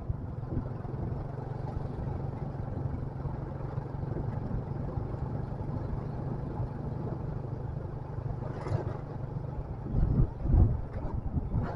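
Motorcycle engine running steadily under way, with wind noise on the microphone that grows into louder low buffeting near the end.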